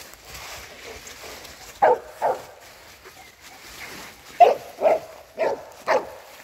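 A dog barking in short, single barks: two close together about two seconds in, then four more in quick succession from about four and a half seconds.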